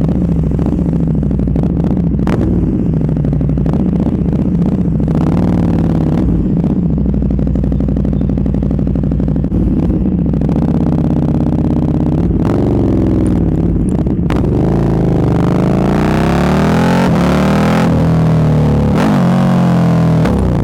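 Naked sport motorcycle engine with an SC-Project aftermarket exhaust running loud under way, its revs climbing and dropping several times, more often in the second half.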